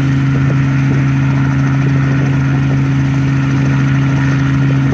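Helicopter engine and rotor running at a steady speed, a loud, even low drone, as it warms up before takeoff.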